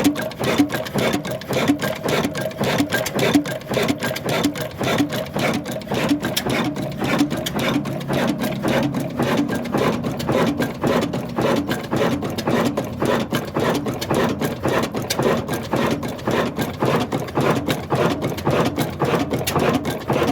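Old stationary diesel engine running steadily, a fast, even mechanical clatter of repeating strokes.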